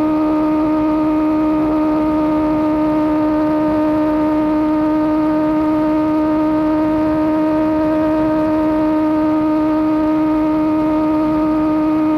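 Superbike engine through an aftermarket Austin Racing GP1R exhaust, holding one steady note at constant revs while cruising.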